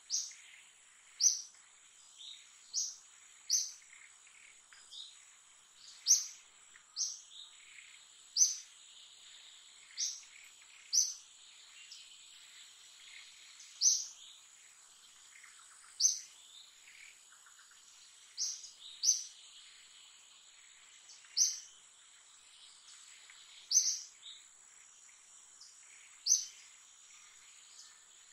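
Short, high bird chirps repeated every one to two seconds, over a steady high-pitched insect drone.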